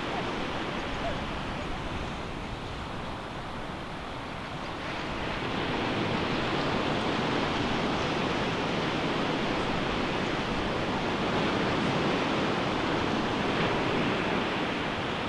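Ocean waves breaking and washing up a beach: a steady rush of surf that dips a little a few seconds in, then swells again after about five seconds.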